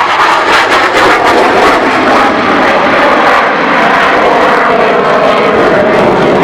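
Loud, continuous jet noise from an F-18 Hornet fighter flying its display.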